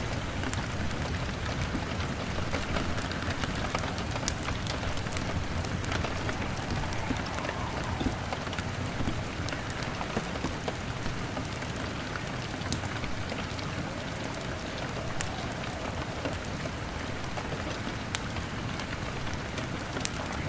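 Steady rain on a window mixed with the scattered crackles and pops of a burning log fire.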